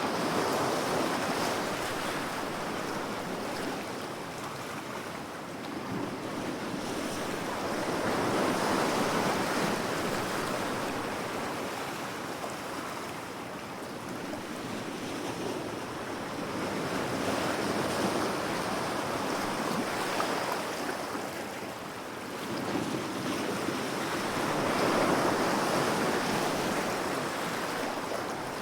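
Ocean waves washing in, the surf swelling and easing in slow surges about every eight seconds.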